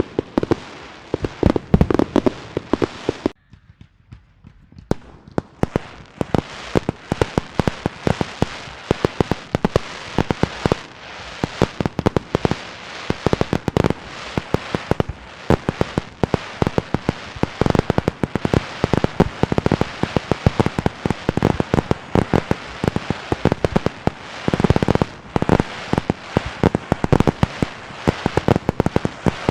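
Fireworks and firecrackers going off in a dense, rapid string of sharp bangs and cracks, several a second. About three seconds in the bangs stop briefly, then resume just as thickly.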